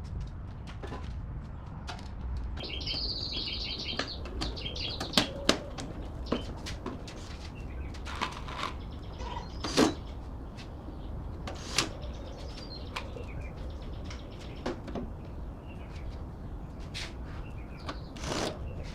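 Scattered light clicks and knocks, a few sharper, over a low steady rumble, with a bird chirping rapidly for about two seconds near the start.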